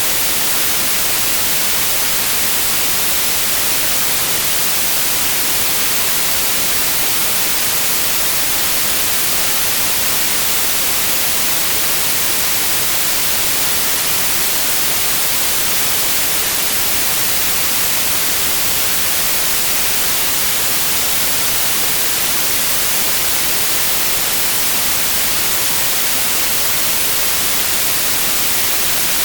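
Steady white noise: an even hiss at a constant level, brightest in the high frequencies.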